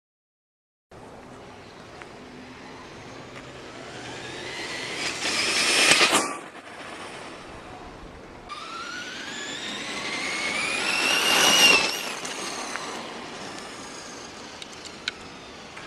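Radio-controlled cars whining past twice: each time the high motor whine climbs in pitch and loudness as a car approaches, then drops sharply in pitch as it passes. The first second is silent.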